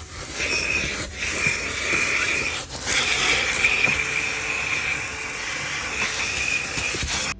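Vacuum cleaner running, a steady rushing hiss with a high motor whine, dipping briefly twice and cutting off suddenly near the end.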